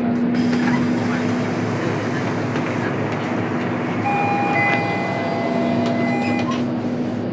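Scania K230UB city bus with its five-cylinder diesel running, a steady drone over road and body noise. About four seconds in, thin high steady tones sound for about two seconds.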